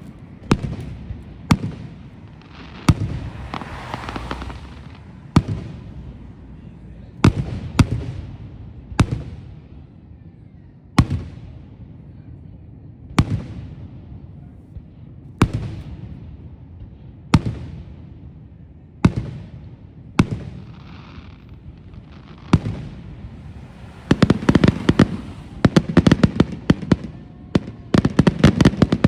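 Fireworks display: shells bursting with sharp bangs every second or two, each followed by a fading rumble. Near the end, many bangs come in a rapid volley.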